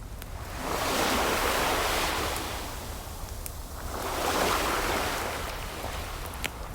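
Ocean waves washing in twice, each one swelling up and falling away over about two seconds, over a steady low surf rumble. A few sharp pops of fireplace crackle sound through it.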